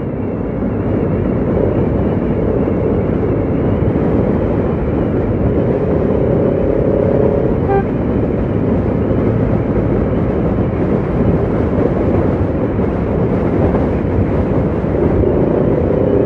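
Motorcycle riding noise: wind rushing over the microphone with engine and road noise, steady and loud throughout. A faint brief tone from other traffic rises about six seconds in.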